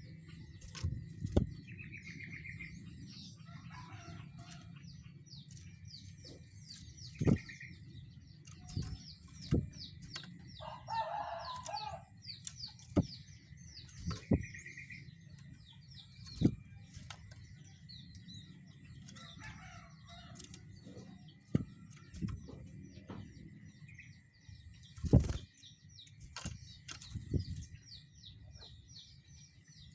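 Rengganis songbird singing busily: a dense run of quick high chirps, with a short buzzy trill that recurs every several seconds. Sharp knocks and flutters break in now and then, the loudest about 25 seconds in.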